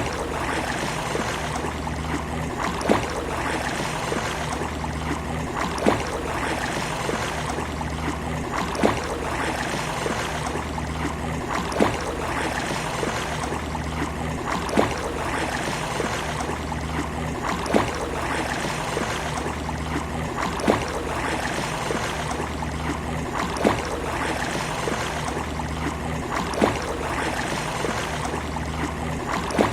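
Steady wash of sea surf and lapping water, with a short sharp click recurring evenly about every three seconds.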